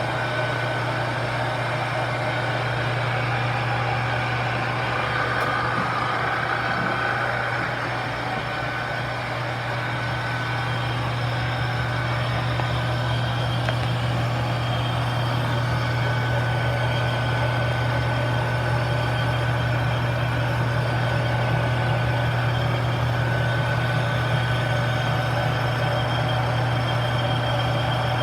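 Shop machinery with electric motors running steadily: a constant low hum with a whir over it, with no start or stop.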